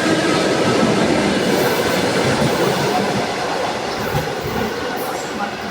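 Train running along the tracks through the station: a dense, steady noise of wheels and running gear that slowly fades as it moves away.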